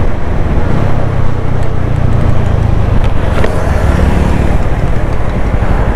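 TVS Apache RTR 200 4V's single-cylinder engine running steadily while being ridden, heard loud over road noise.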